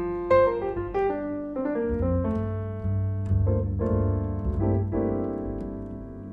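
Piano music: a run of notes over a low bass line, then a chord held and dying away in the second half.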